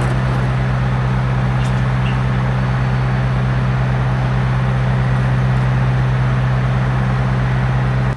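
An engine running steadily at constant speed: a loud, even drone with a fast regular pulse underneath. It cuts off abruptly at the very end.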